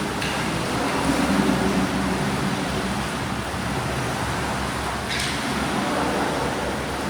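Steady wash of swimming-pool noise from swimmers splashing and churning water, with two brief sharp sounds, one at the start and one about five seconds in.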